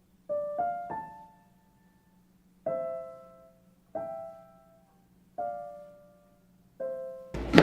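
Background piano music: single notes and small chords struck and left to fade, one every second or so. A loud burst of noise cuts in at the very end.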